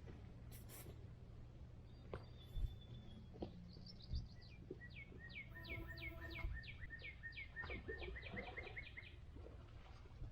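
A songbird singing a long series of quick down-slurred whistled notes, about four a second and speeding up toward the end, over a low steady background rumble with a few faint knocks.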